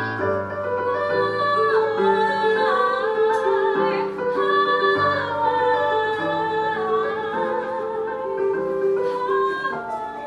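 Music: a woman singing long, wavering held notes over a piano accompaniment.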